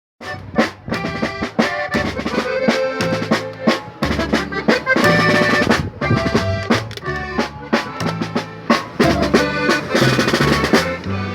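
Instrumental Mexican regional music: an accordion playing over a drum kit with sharp snare strokes, and no singing.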